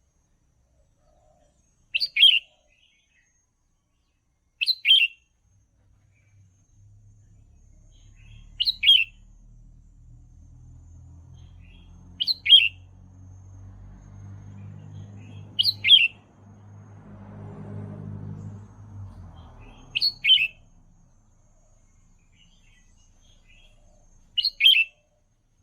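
Red-whiskered bulbul singing: seven short, quick phrases, each falling in pitch, repeated about every four seconds. A faint low hum sits underneath for a while in the middle.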